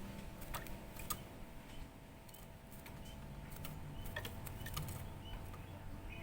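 Scattered sharp clicks and taps, with a few faint short bird chirps and a low steady hum underneath.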